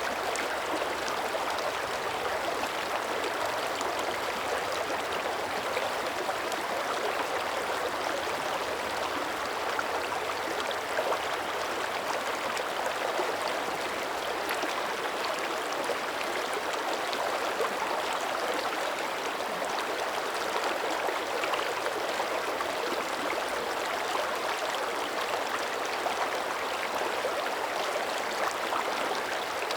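Small mountain creek running and gurgling steadily over rocks, an even rushing flow with fine splashing detail.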